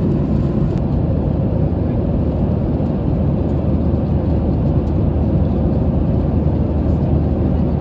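Steady low rumble and rush of a Boeing 737-800's passenger cabin in flight: CFM56-7B engine noise and airflow over the fuselage, with a constant low hum underneath.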